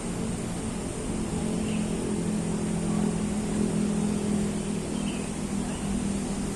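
Steady low engine drone, like a motor vehicle running nearby, with a couple of faint bird chirps.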